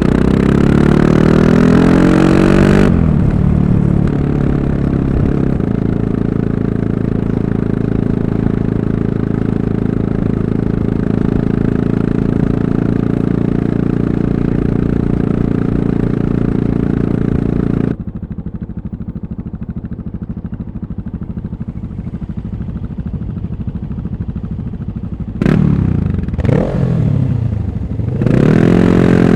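Yamaha MT-03's 660 cc single-cylinder engine accelerating, then running steadily under way for a long stretch. About two-thirds of the way in the throttle is closed and it drops back, then a few quick blips of revs near the end lead into pulling away again with rising pitch.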